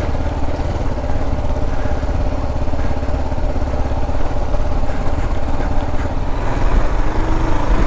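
Kawasaki KLR 650's single-cylinder four-stroke engine running at low trail speed, picking up a little near the end.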